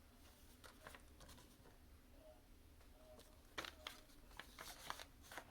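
Near silence with a few faint rustles and taps of folded paper being handled, mostly in the second half.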